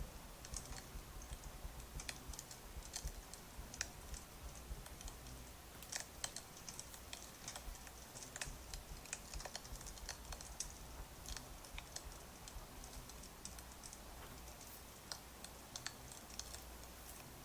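Many light, irregular clicks and taps over a low steady hum.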